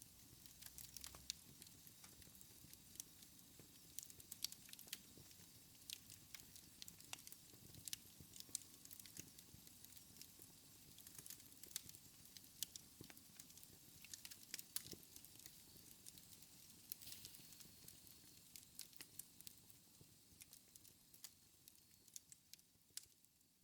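Wood fire in a fireplace crackling, with many sharp pops over a soft hiss; it fades out near the end.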